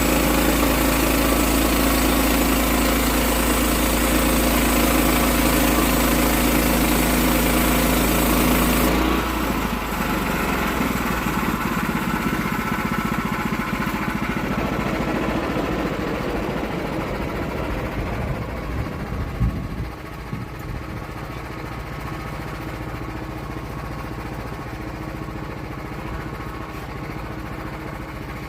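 Sawmill engine running loud and steady, then dropping to a quieter idle about nine seconds in, when the high hiss cuts off.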